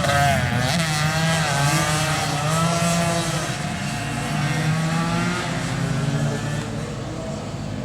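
Tuned two-stroke motorcycle engines revving, several at once, their pitch rising and falling over a steadier low engine hum.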